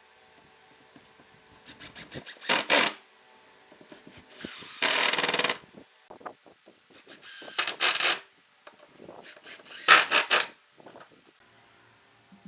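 A tool working wood in separate bursts of scraping and rasping strokes, with one steadier burst about a second long near the middle.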